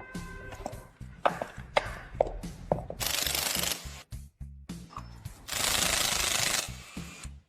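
Workshop tool sounds over background music: a few sharp clicks and knocks in the first half, then two bursts of steady hiss, the first about three seconds in and under a second long, the second a little over a second long.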